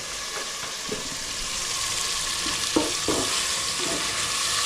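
Food sizzling in a hot pan as it is stirred: a steady frying hiss that grows a little louder partway through, with a sharp knock about three seconds in.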